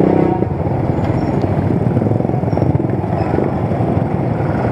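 Motorcycle riding along a road: the engine runs steadily under a constant rush of wind and road noise on the microphone.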